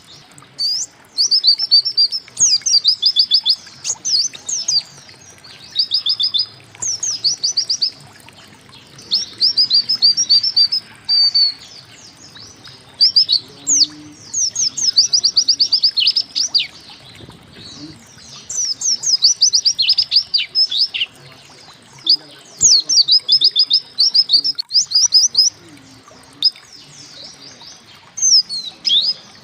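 A white-eye (pleci) singing: phrases of rapid, high, sharply falling notes, each lasting a second or two, repeated with short pauses between.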